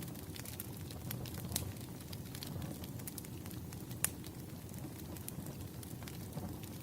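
Wood fire crackling: a low steady rumble of burning logs with irregular sharp pops and snaps, the loudest about four seconds in.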